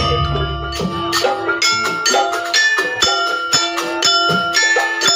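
Live campursari music: struck, ringing metallophone-type keys play a busy melody over percussion, with a deep low boom in the first second.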